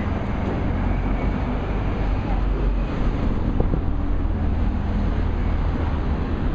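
Steady street noise outdoors: a low rumble of passing traffic mixed with wind buffeting the microphone.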